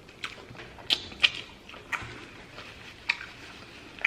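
Eating sounds close to the microphone: about six sharp clicks and taps of utensils and food, spaced unevenly, over faint quieter mouth and handling noise.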